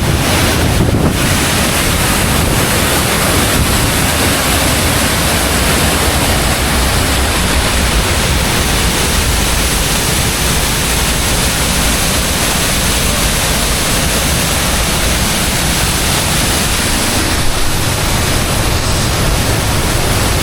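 Sgwd yr Eira waterfall roaring at close range, a loud, steady rush of heavy falling water swollen by rain, with wind noise on the microphone.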